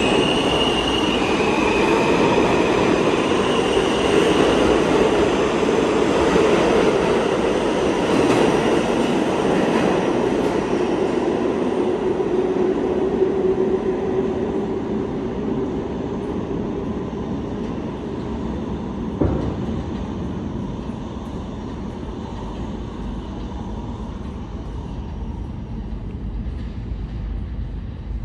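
An R160 subway train running on the track, with high squealing tones in the first couple of seconds, its rumble slowly fading as it moves away. A single short knock about 19 seconds in.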